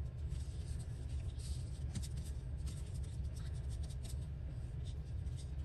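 Paper and fabric scraps being handled and pressed down by hand: a run of small scratches and rustles over a steady low hum.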